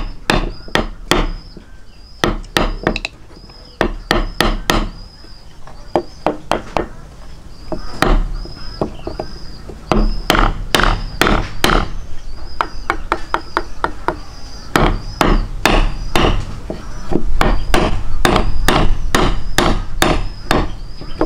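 Repeated sharp knocks in irregular runs of two to four strikes, coming thicker and louder in the second half. A short high chirp repeats steadily behind them.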